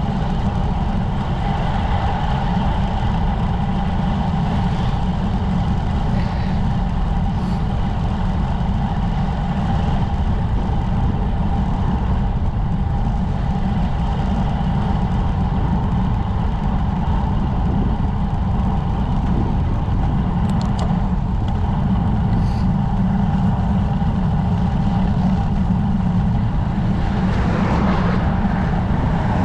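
Wind buffeting the camera microphone and road noise from a road bike riding along at speed, a steady rushing with a heavy low rumble.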